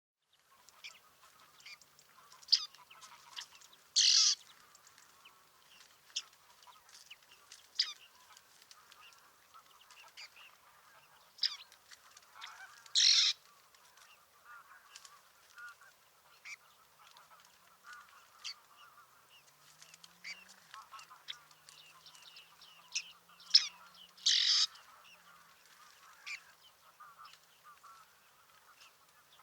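Bearded tits calling: many short, sharp calls, with three louder, longer calls about ten seconds apart.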